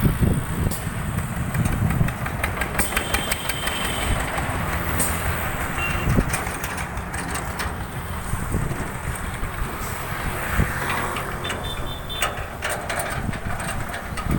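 Motorcycle engine running on a motorcycle-trolley rig, with frequent rattling clicks throughout.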